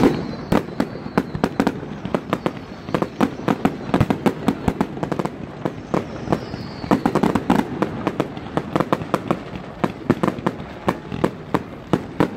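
Aerial fireworks going off in quick succession: irregular sharp bangs and crackling pops, several a second, with a brief falling whistle about six seconds in.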